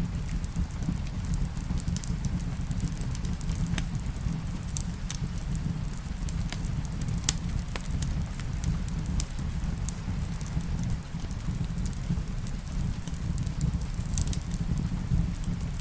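Wood fire crackling, with scattered sharp pops (one louder about seven seconds in) over a steady low rumble, mixed with falling rain.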